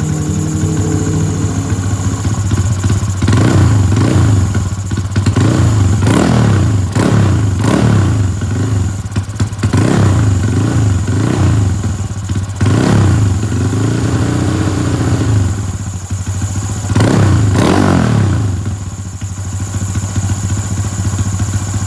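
Motorcycle engine breathing through an aftermarket CLD exhaust, revved again and again in quick throttle blips that rise and fall in pitch, with a longer rev in the middle, then settling back to idle near the end.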